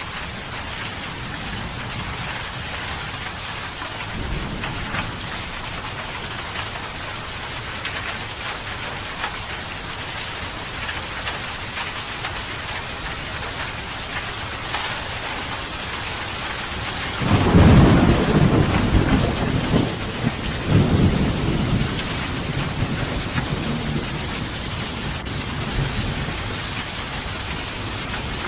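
Steady rain falling, with a faint low rumble of thunder about four seconds in. A loud peal of thunder comes about two-thirds of the way through, rumbling for several seconds with a second surge before it fades back under the rain.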